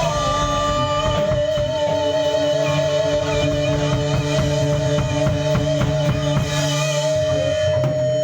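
A band playing: a drum kit keeps a steady beat under guitar, with a long held note wavering in pitch over it for most of the time.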